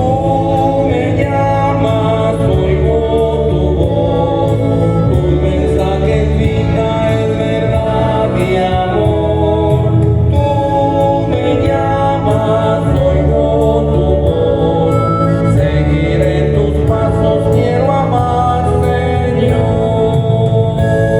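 A church choir singing a Spanish-language Mass entrance hymn over a steadily stepping organ bass line. The recording is muffled and low in quality, with no treble.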